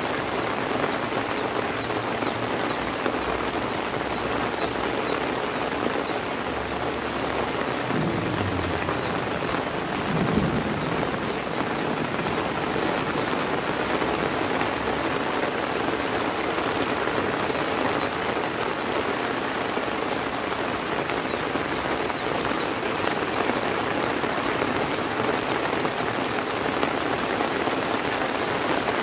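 Heavy rain falling steadily. A brief low rumble comes and goes about eight to eleven seconds in.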